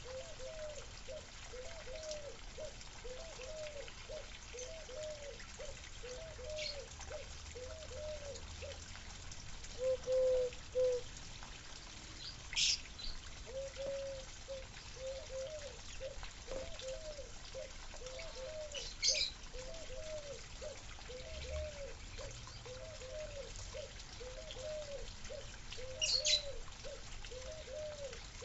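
Water trickling with a run of low gurgling notes, about two a second, that pauses briefly about eleven seconds in. Short, high bird chirps break in about every six seconds.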